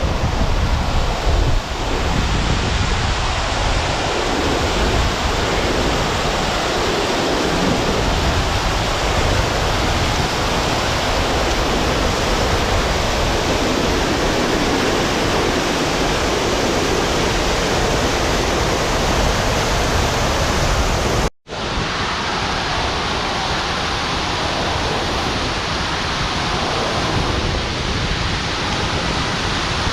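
Steady roar of falling water from the Vettisfossen waterfall, a dense, even rush across all pitches, broken by a split-second dropout about two-thirds of the way through.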